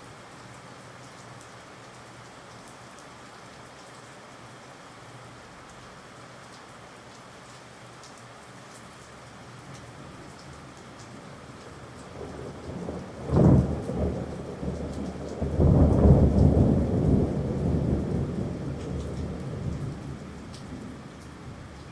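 Steady rain hiss, then about thirteen seconds in a sudden crack of thunder, followed by a long rolling rumble that swells and slowly fades.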